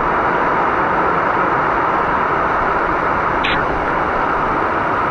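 Steady rushing noise of an ATV ride, the engine and wind running together without change. A short high squeak rises briefly about three and a half seconds in.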